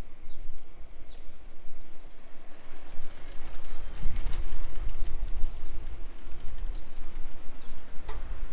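Outdoor ambience dominated by a low wind rumble on the microphone, with a few faint, short bird chirps.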